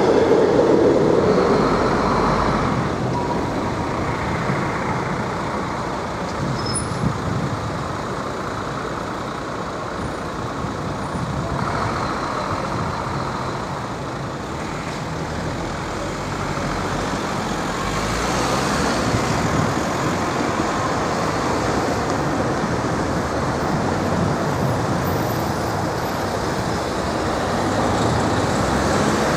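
NMBS electric passenger train passing over a level crossing, its running noise loudest in the first couple of seconds and then fading. Steady street and traffic noise follows, with cars driving over the crossing near the end.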